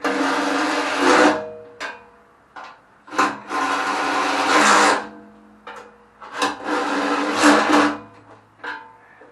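A handheld power driver runs in three short bursts, each about a second and a half, fastening the weight box to the garden tractor. Small clicks and knocks come between the bursts.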